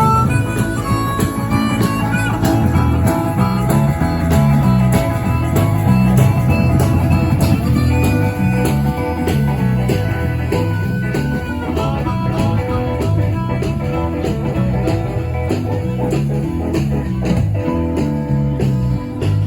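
Live blues band playing an instrumental passage: a guitar melody with bent notes over a walking bass line and a steady drum beat.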